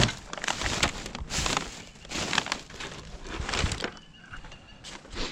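Plastic bags and packaging rustling and crinkling in irregular bursts, with small knocks, as discarded items are rummaged through and handled.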